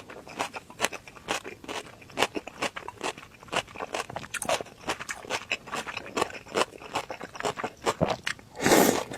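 Close-up chewing of crisp vegetables and cold noodles: a quick, uneven run of small crunches, with a louder noisy burst near the end.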